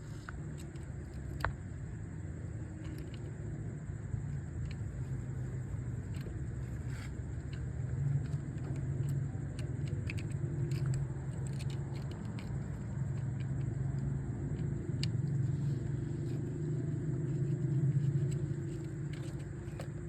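Motorcycle engine running at idle, a steady low hum that rises and falls slightly, with faint light clicks over it.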